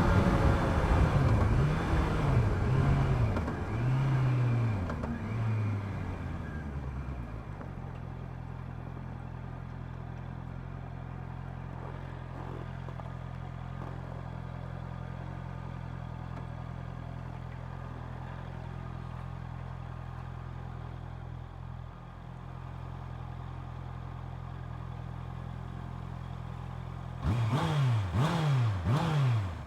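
Honda CB650R's inline-four engine on its stock exhaust, coming off the throttle with several short rises and falls in pitch as the bike slows, then settling into a steady idle. Near the end it gives about four quick throttle revs in a row.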